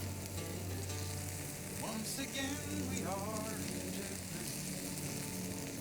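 Chicken thigh sizzling on a hot iron griddle plate over a log fire. A steady low hum runs underneath, and two short wavering tones sound around the middle.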